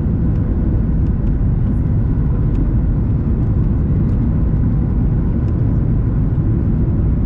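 Steady low cabin rumble inside a Boeing 737 MAX 8, the airflow and CFM LEAP-1B engine noise heard from a window seat, with a faint steady tone under it.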